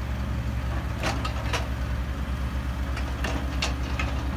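Diesel engine of a Sany 135-9 excavator running steadily with a low drone, with a few short clicks over it.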